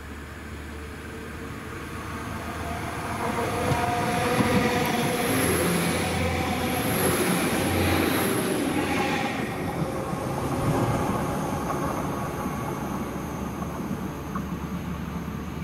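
Northern Class 195 diesel multiple unit passing close at speed: engine and wheels on the rails growing louder, peaking a few seconds in, then fading as it moves away. A thin high whine sounds while it is closest.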